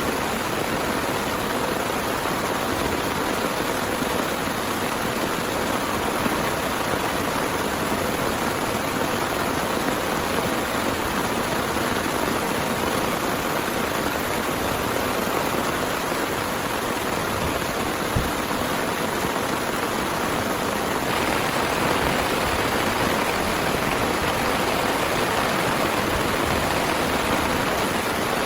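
Heavy rain falling steadily as an even hiss of water, growing a little louder about three quarters of the way through.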